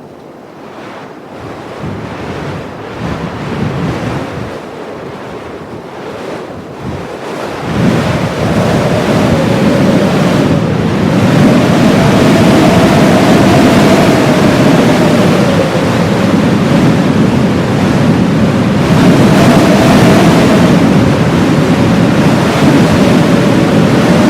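Heavy blizzard wind, gusting unevenly at first, then rising sharply about a third of the way in to a loud, steady blast. Once it is loud, a faint wavering whistle runs through it.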